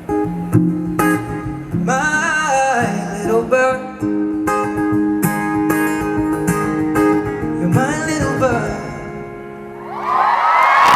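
Live acoustic guitar with wordless singing playing out the end of a song, fading about nine seconds in. Near the end the audience breaks into loud cheering and screaming.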